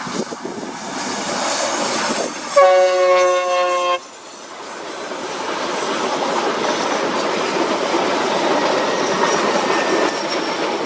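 An Indian Railways locomotive horn sounds one blast of about a second and a half, a little over two seconds in. After it, the running noise of the passenger train builds steadily as it approaches, with wheels clattering on the rails.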